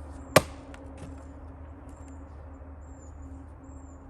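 A single sharp axe blow into a round of firewood being hand-split, a crack about half a second in, over a steady low hum.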